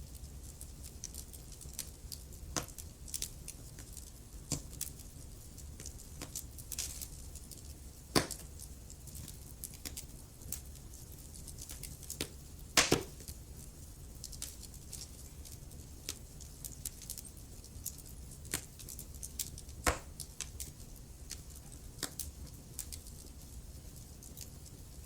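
Wood fire crackling in a fireplace: irregular snaps and pops of burning logs over a steady low rumble of the flames, with a few louder pops about 8, 13 and 20 seconds in.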